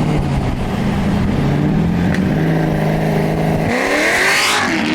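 Dodge Charger Scat Pack's 6.4-litre HEMI V8 running with a steady drone while driving, then rising in pitch as it revs up near the end, with a burst of hiss.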